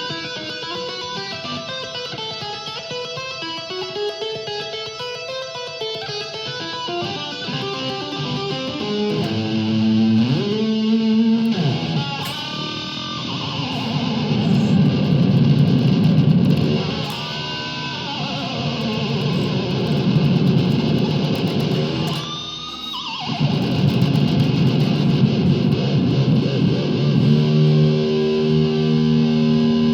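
Electric guitar through effects, played with two-handed tapping in quick runs of notes, then swooping pitch slides that mimic a horse's whinny, over a sustained distorted chord.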